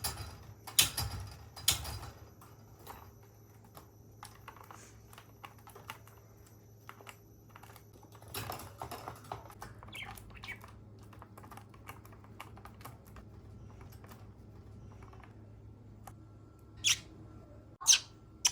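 Budgerigar clattering about in its cage: a run of quick sharp clicks and taps, louder and busier at first, then scattered, with two louder sharp sounds near the end.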